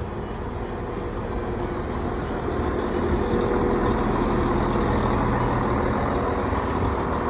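Class 170 Turbostar diesel multiple unit heard from on board: its underfloor diesel engine runs with a steady hum under the rumble of the train in motion. The noise grows louder over the first few seconds, then holds.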